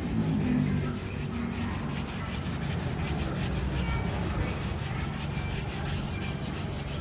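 Sandpaper rubbed back and forth by hand in quick, even strokes, about four a second, over a steady low hum.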